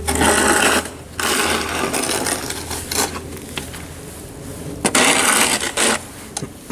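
Snow shovel scraping and pushing through snow in three long scrapes, the longest about two seconds, with short knocks of the blade between them.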